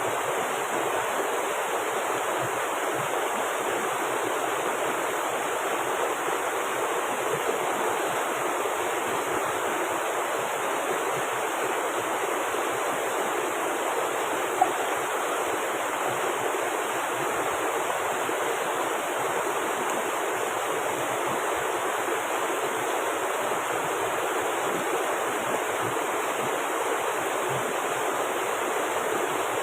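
River water rushing steadily over rocks, with one brief click about halfway through.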